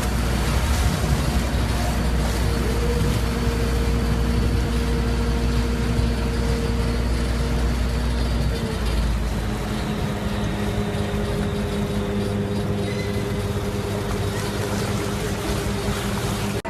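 Boat engine running steadily with a low rumble, its pitch dropping a little about eight and a half seconds in.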